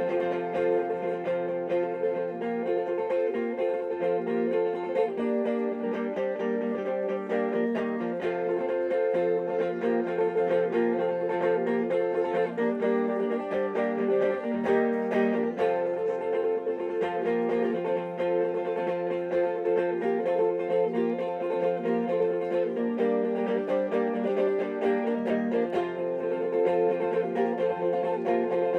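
Instrumental music on plucked string instruments, chords played with a steady, quick rhythm and no singing.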